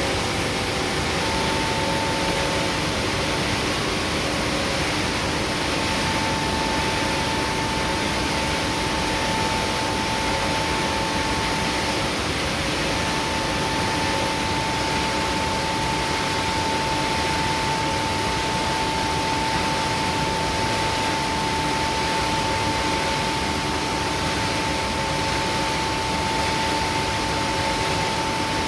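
Palm-oil mill screw press machinery running steadily: a dense, even noise with a steady whine over it that breaks off briefly about twelve seconds in.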